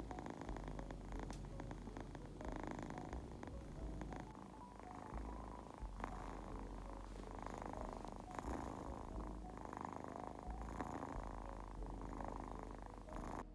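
Domestic cat purring steadily, the purr swelling and easing in a slow rhythm every second or two.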